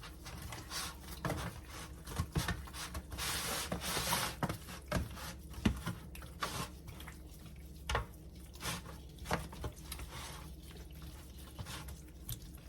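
Gloved hands rubbing and pressing seasoned flour coating onto pieces of raw food: soft rubbing and squishing with scattered light knocks against the bowl or tray, and a hissy stretch of rubbing about three seconds in.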